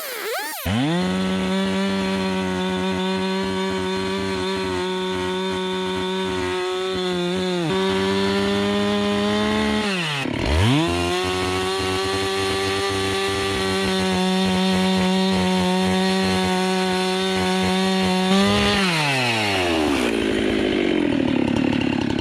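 Husqvarna 390 XP two-stroke chainsaw held at high revs while cutting wood, with a chain its owner thinks is not sharp. The revs drop and pick straight back up about ten seconds in, then fall away to idle near the end.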